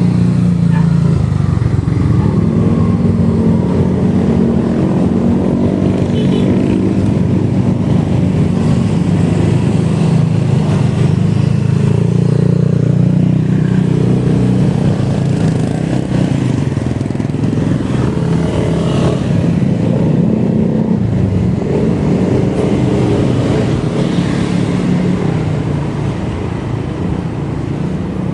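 Motorcycle running at road speed: a steady low engine rumble whose pitch shifts a little as the rider works the throttle.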